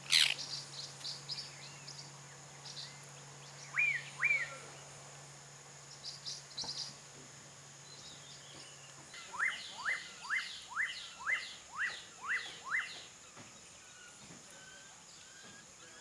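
Wild birds calling: a sharp snap at the very start, scattered short high chirps, two sharp notes about four seconds in, and from about nine seconds a run of eight quick rising whistled notes. A faint steady high tone runs underneath.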